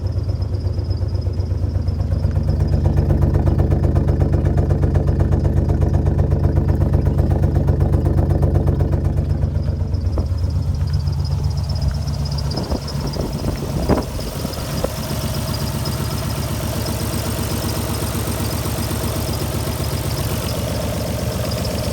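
Alfa Romeo GTV V6 engine running rough after months parked, a suspected misfire. It runs a little faster and louder for the first half, then settles to a lower idle just past halfway, with a few short clicks around the change.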